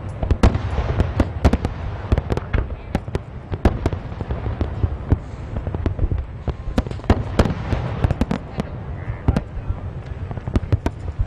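Heavy rain falling, with dense irregular sharp taps of large drops over a steady low rumble.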